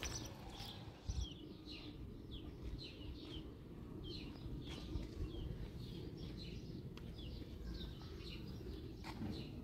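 Small birds chirping outdoors: many short, falling high chirps repeated a few times a second, over a low steady background rumble.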